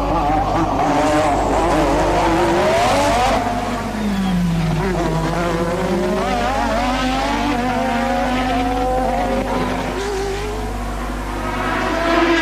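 1988 Formula One race cars' engines at racing speed, several engine notes overlapping and rising and falling in pitch through gear changes; one note climbs and breaks off about three seconds in, another near the end.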